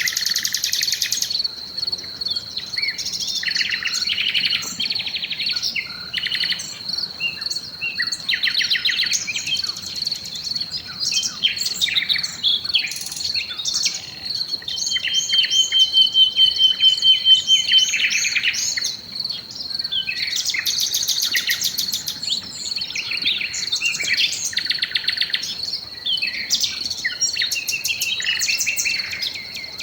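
Several songbirds singing in a dusk chorus: many short chirps, whistles and trills, with one rapid trill about halfway through the loudest. Under them runs a steady, high, pulsing tone.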